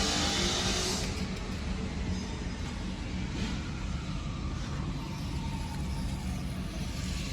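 Small electric motors and gearboxes of radio-controlled toy construction vehicles running steadily, with faint rises and falls in pitch. A loud hiss cuts off about a second in.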